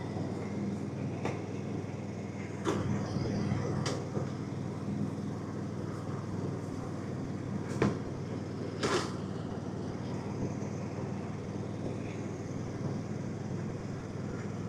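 Riding lawn mower engine running steadily, with about five sharp knocks or clicks scattered through it, the strongest about eight and nine seconds in.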